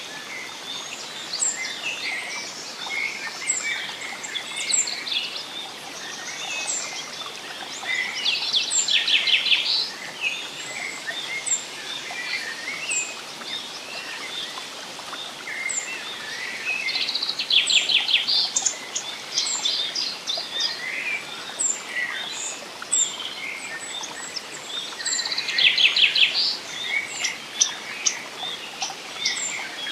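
Forest birds singing and chirping, several calls overlapping, with a louder fast trill that comes three times, about eight seconds apart, over a steady soft background hiss.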